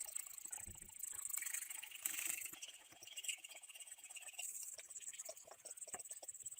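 Irregular light scratching and small clicks of hand tools working a small rusty metal object, faster and denser in the second half.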